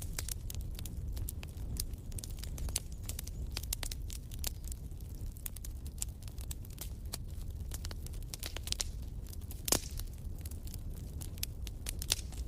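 Fire in a fireplace crackling: irregular small snaps and pops over a low, steady rumble, with one louder pop about ten seconds in.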